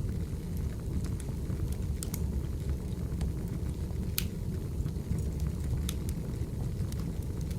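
Wood fire burning: a steady low rumble with scattered sharp crackles and pops from the firewood, the sharpest pop about four seconds in.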